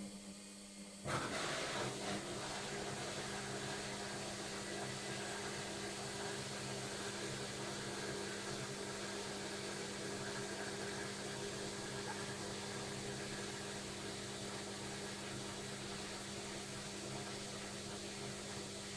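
Logik washing machine on its final spin: the motor and drum run with a steady whir over a low hum. About a second in the noise jumps suddenly louder, then holds steady.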